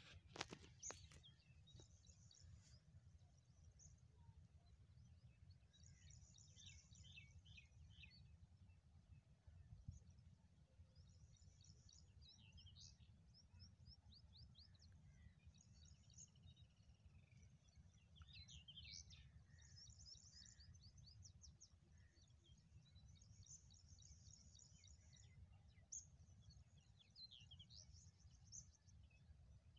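Faint chirping and twittering of small birds, many short high calls and quick trills scattered throughout, over a low steady rumble. A few sharp clicks right at the start.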